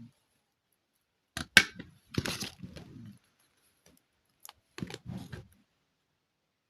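Small hard plastic parts being handled: two sharp clicks about a second and a half in, then a short rattle, and another brief burst of clicks and rattling near the end.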